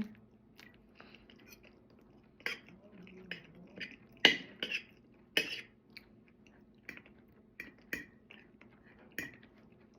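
A person chewing food close to the microphone, with wet mouth smacks and clicks at irregular intervals.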